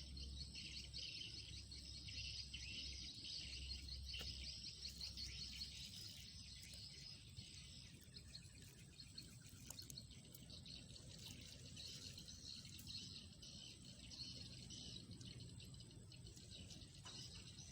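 Faint outdoor ambience: a steady high chirping of insects and birds, a little louder in the first third, over a low background rumble.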